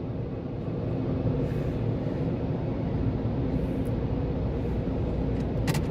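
Car creeping forward at low speed, heard from inside the cabin as a steady low rumble of engine and road noise, with a few clicks near the end.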